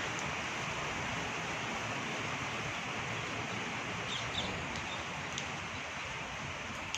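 Steady background hiss with a few short, high parrot chirps about four seconds in and once more about five and a half seconds in.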